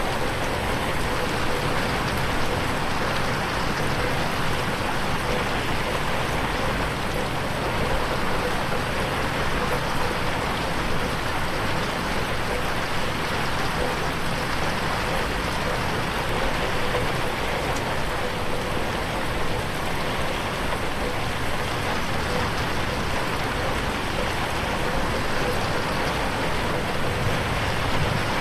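Steady, heavy rain on a window pane, mixed in '8D' so that it pans around the listener on headphones.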